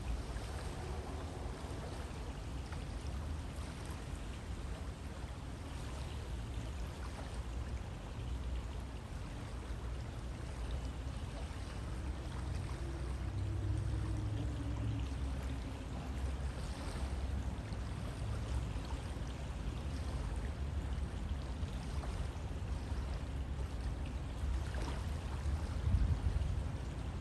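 River water flowing steadily, a continuous rushing with low rumble and faint splashes and trickles.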